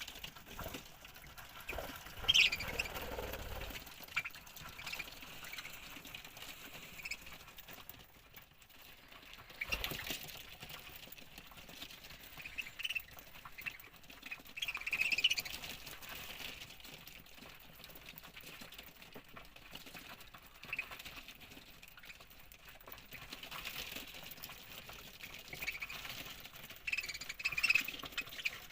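Budgerigars chirping in short, scattered calls, coming in a few louder bouts with quieter stretches between.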